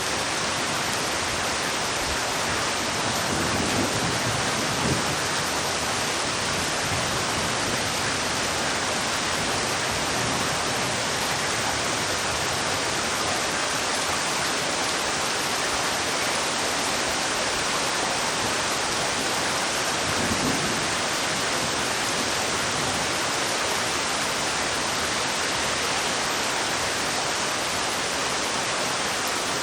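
A steady, even rushing noise that does not change, with a faint low thump about five seconds in and another about twenty seconds in.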